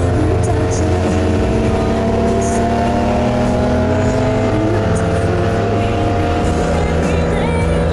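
Car engine pulling under steady load, its pitch rising slowly over several seconds, with road and tyre noise, heard from inside a car's cabin.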